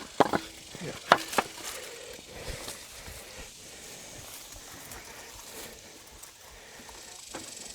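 Four sharp knocks in the first second and a half, the loudest about a second in, then only faint outdoor background.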